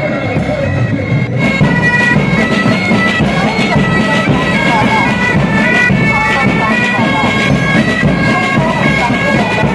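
Bagpipes playing a tune, a stepping high melody over steady held drone notes, getting louder about a second in.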